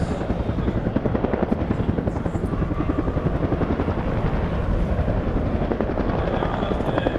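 Bell helicopter flying past, its Lycoming T53 turboshaft running and its two-bladed main rotor beating in a rapid, even pulse.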